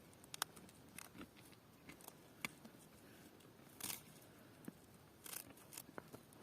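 Faint, scattered snaps and crunches of dry plant stems, about eight sharp cracks spread irregularly over a quiet background, the loudest just under half a second in.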